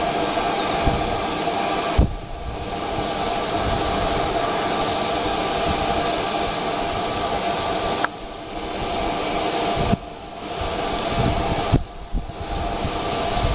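Jet aircraft engine running, a loud steady hiss and whine that dips sharply several times before building back up.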